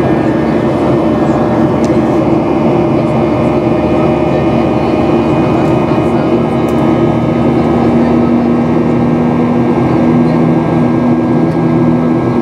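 Boeing 737-800's CFM56-7B turbofan engines heard inside the passenger cabin: a steady, loud rush of engine and air noise with a few steady hums, and a low drone that grows stronger partway through.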